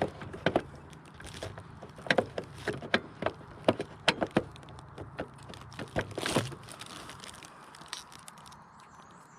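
Irregular clicks and knocks of hand tools, fasteners and plastic trim being handled during front-end reassembly on a car, with a longer scrape about six seconds in.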